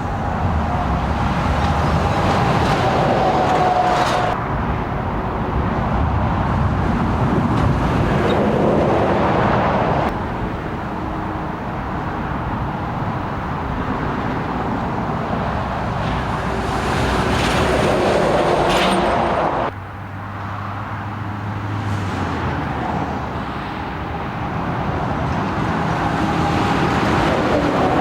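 Heavy lorries passing at motorway speed, tyre roar and engine noise swelling and fading as each goes by. The sound cuts abruptly to a new pass-by about four, ten and twenty seconds in.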